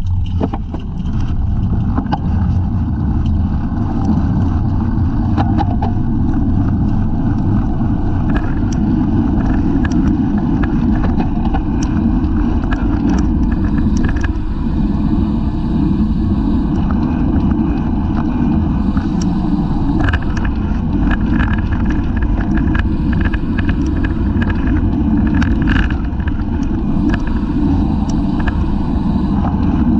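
Wind rushing over the microphone of a rear-facing camera on a racing bicycle under way, with steady road rumble and scattered sharp clicks.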